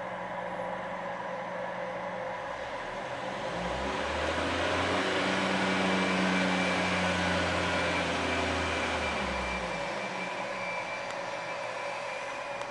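Mitsubishi Delica D:2 minivan's engine and exhaust idling, then revved steadily up about four seconds in, held a few seconds, and let fall back to idle near the end.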